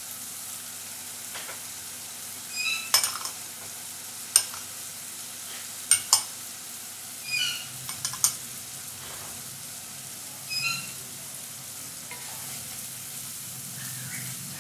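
Onion-tomato masala sizzling in hot oil in a stainless steel kadai while being fried down, stirred with a wooden spatula that knocks against the pan several times. A few short high squeaks come and go.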